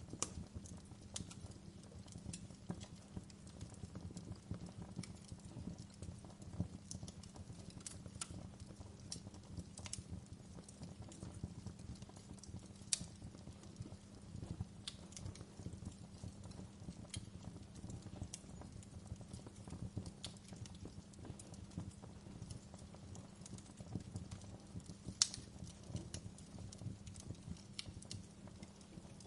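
Wood fire in a fireplace crackling steadily over a low rumble of the flames, with irregular small pops and a couple of sharper snaps, one about 13 seconds in and one about 25 seconds in.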